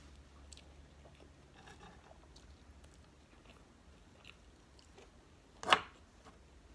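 Close-miked eating sounds of a person chewing McDonald's food: quiet chewing with soft mouth clicks, and one short, loud bite or smack near the end.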